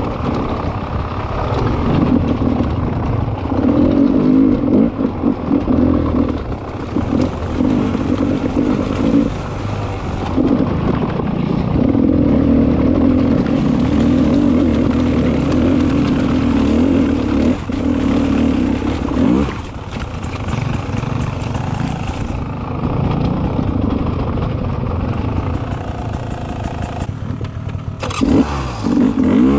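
Beta 300 RR two-stroke enduro motorcycle engine, heard from the rider's position, revving hard in repeated surges with brief throttle-offs between them on trail. It runs softer for several seconds near the end, then picks up sharply again.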